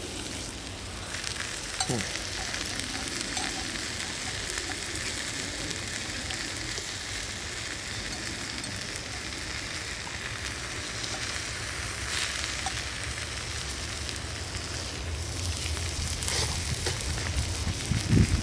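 Food frying in a pan over a campfire: a steady sizzle with faint scattered ticks.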